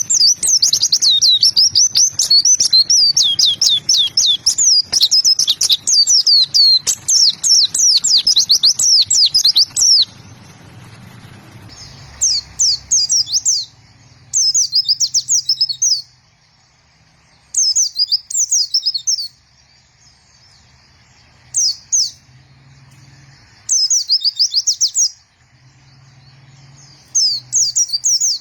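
White-eye (pleci) singing: a fast, unbroken run of high, rapidly sweeping twitters for about ten seconds, then six short bursts of song with brief pauses between them.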